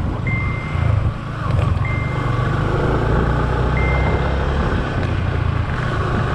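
Motorcycle running on the road with a steady low rumble of engine and wind. A short high beep repeats about every two seconds, four times.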